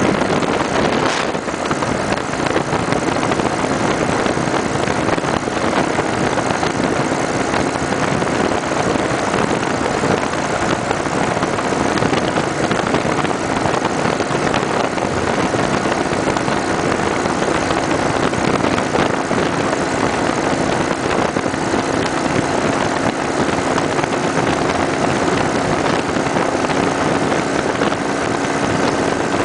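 Kawasaki Vulcan 900 Custom motorcycle riding at a steady cruise, its V-twin engine a faint steady hum under loud, unbroken wind and road noise.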